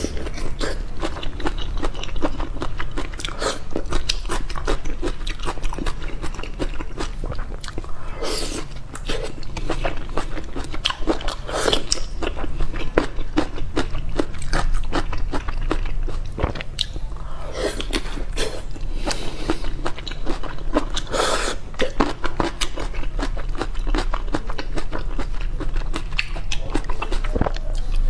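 Close-miked chewing and biting of raw soy-marinated shrimp: wet smacking and clicking mouth sounds, with a few louder wet sucks.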